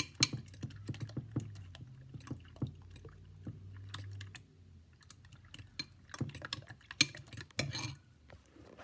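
Fork clicking and scraping against a bowl while beating eggs and milk, in quick irregular taps that grow louder about three-quarters of the way in. A faint low hum sits underneath for the first half.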